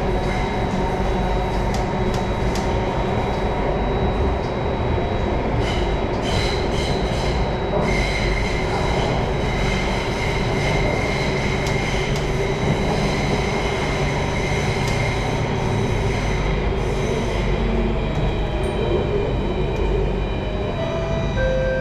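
In-cabin ride noise of a Singapore MRT Circle Line train running underground: a steady rumble of wheels and motors, with high wheel squeal from about six to seventeen seconds in. A few sharp clicks, and a brief whine near the end as it approaches the terminus.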